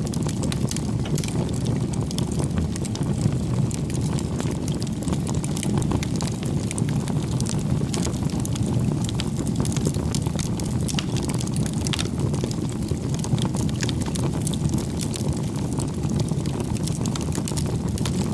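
Campfire burning with a steady low rumble of flames and frequent irregular crackles and pops from the burning wood.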